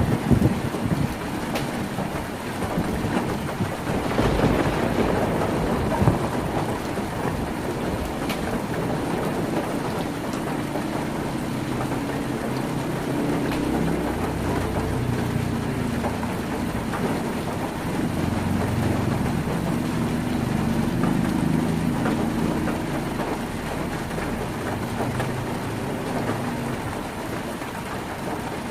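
Heavy rain drumming steadily on a tin roof, with a low rolling rumble of thunder through the middle.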